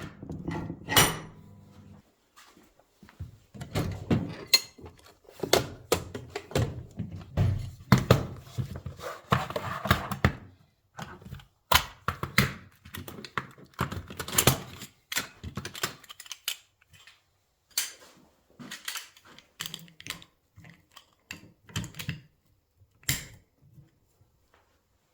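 Irregular knocks, clicks and clanks of metal tools and parts being handled while the coil spring is taken off a motorcycle rear shock absorber. Spells of busy clattering alternate with pauses, and it grows sparse near the end.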